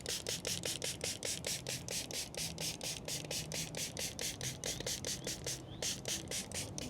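Trigger spray bottle of headlight-restoration cleaner pumped rapidly onto a yellowed, oxidized plastic headlight lens: about five short sprays a second, each with a click of the trigger, with a brief pause near the end.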